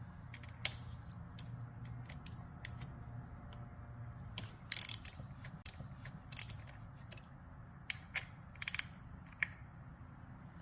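Socket ratchet clicking in short, irregular runs while loosening the bolts of a Honda Monkey's oil filter cover.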